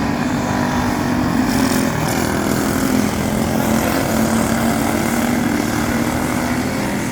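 Speedway motorcycles racing, their engines making a loud, steady drone that wavers slightly in pitch.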